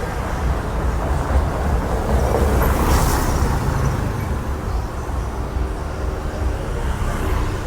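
Street traffic noise with a steady low rumble; a vehicle passes close, loudest about three seconds in.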